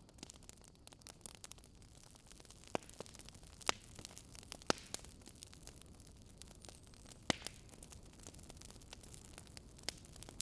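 Wood fire crackling softly, with scattered small snaps and a few louder pops.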